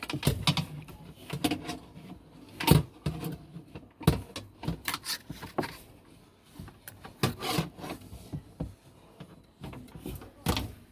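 Irregular scraping, rubbing and knocking as a wire is worked into a washing machine's plastic drain pipe to clear a blockage of socks. There are several sharper knocks among the scrapes.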